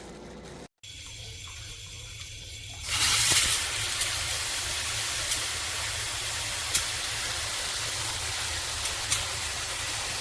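Water spraying from a handheld filtered shower head: it comes on about three seconds in and runs in a steady hiss, with a few light clicks.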